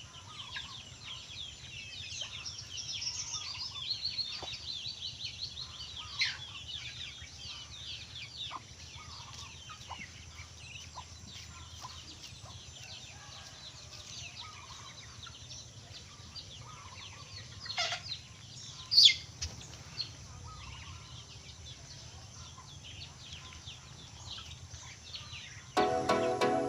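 Farmyard poultry calling: a continual chatter of short high chirps and clucks, with a couple of louder calls about two-thirds of the way through. Background music comes in just before the end.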